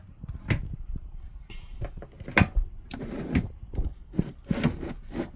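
A series of irregular knocks and clicks, with louder knocks about two and a half and three and a half seconds in.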